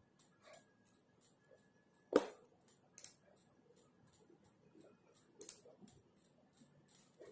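Computer keyboard typing, soft irregular key clicks several a second, with one louder knock about two seconds in.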